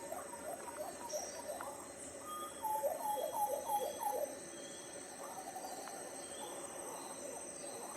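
Tropical forest ambience: birds calling with a quick series of short, low-pitched notes near the middle, over a steady high insect trill.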